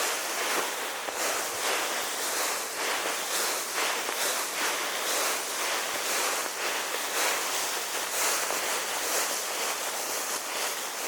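Footsteps walking through dry autumn leaf litter, about two steps a second, over a steady hiss.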